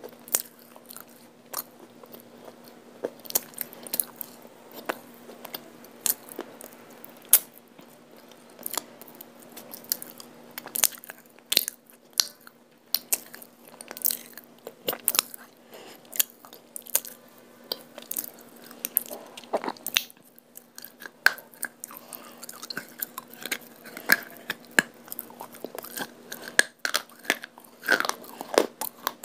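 Close-miked biting and chewing of a hard white chalky lump: sharp, irregular crunches, several a second at times, over a faint steady hum.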